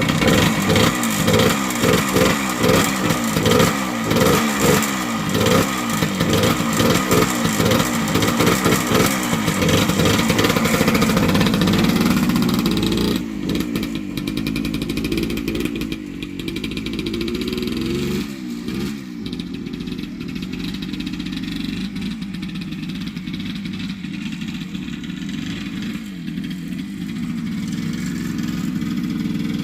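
1978 Yamaha DT100's two-stroke single-cylinder engine running, revved in quick rising and falling blips for the first dozen seconds. It then drops a little in level and runs more evenly, with one more pitch swing partway through.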